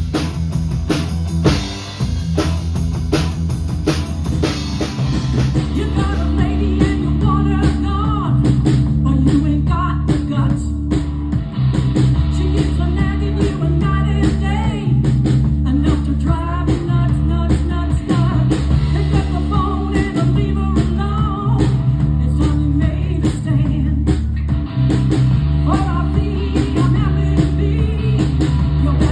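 Live band playing a rock-and-roll number: drum kit, bass and guitar, with a melodic lead line over the top. The drums are busiest in the first couple of seconds.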